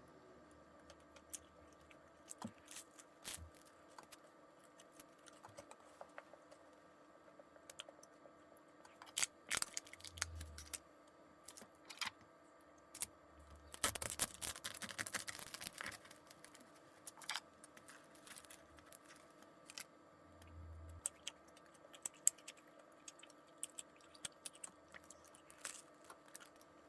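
Salt bread being handled and eaten: scattered small clicks and taps, with a dense tearing, crackling stretch of about two seconds a little past halfway.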